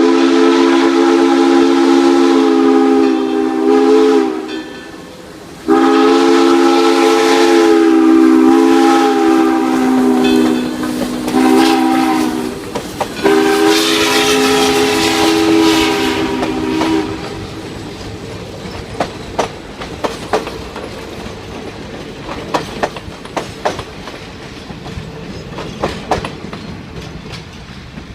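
Steam locomotive's chime whistle sounding the long, long, short, long grade-crossing signal, a chord of several notes, on Great Smoky Mountains Railroad 2-8-0 No. 1702. After the last blast the train rolls on with its wheels clicking irregularly over rail joints.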